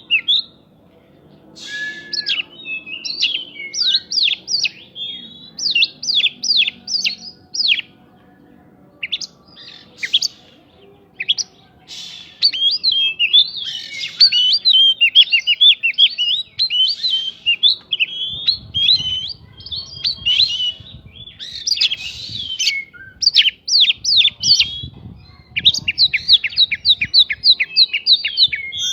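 Oriental magpie-robin (kacer) singing in bursts of quick, sharp chattering notes with short pauses between, its song filled with prinia (prenjak) phrases such as fast runs of evenly repeated notes. A faint low rumble runs under the second half.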